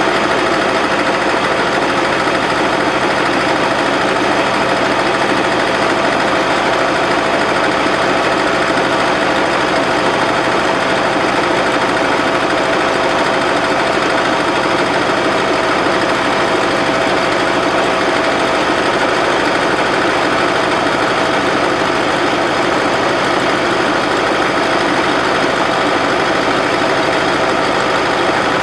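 Bobcat 610 skid-steer loader's gasoline engine running steadily at a constant speed.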